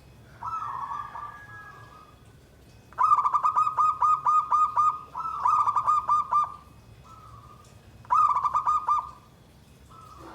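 Zebra dove (perkutut) cooing: several phrases of rapid rolling coos at one steady pitch, each a second or two long, with short pauses between them.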